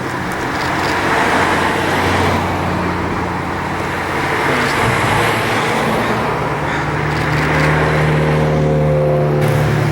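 A car engine running close by over road traffic noise, its pitch shifting in the second half.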